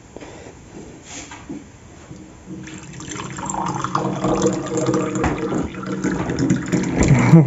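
Cold water being poured into a drinking glass. The pouring starts about three seconds in and gets louder.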